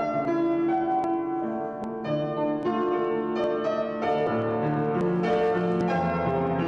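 Piano music, notes and chords moving at a slow, even pace.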